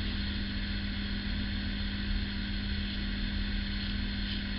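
Steady background hum with a constant low tone and a faint even hiss, unchanging throughout.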